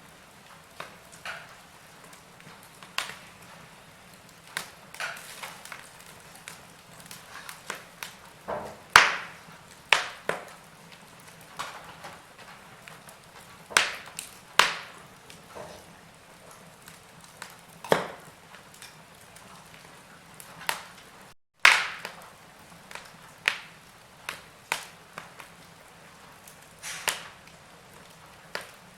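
Wood fire in a fireplace crackling, with irregular sharp pops and snaps over a faint steady hiss, a few pops much louder than the rest.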